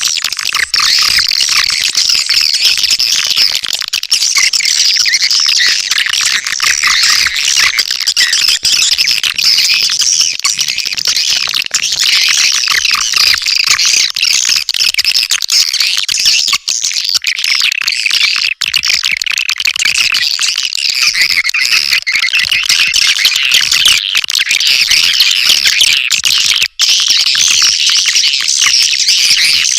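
Dense, continuous twittering and chattering of edible-nest swiftlets, many calls overlapping with no pause. This is a swiftlet lure-call recording (suara panggil walet), made to attract swiftlets into a nesting house.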